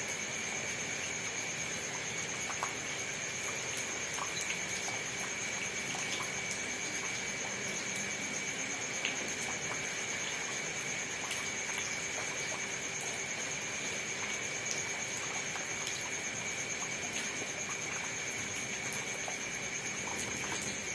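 Steady rain, a constant hiss with scattered individual drops ticking. Two steady high-pitched tones run through it without a break.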